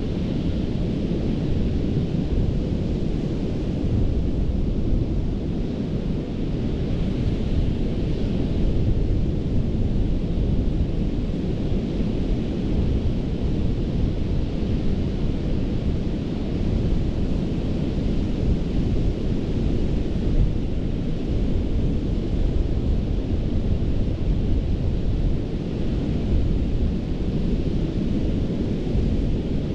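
Ocean surf on a sandy beach: a steady deep rumble of breaking waves, with the hiss of the wash swelling briefly about a quarter of the way in.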